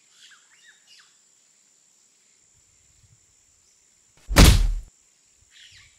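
Small birds chirping faintly outdoors, a few short falling chirps near the start and again near the end. About four seconds in there is one loud, sudden burst of noise, a thump lasting about half a second.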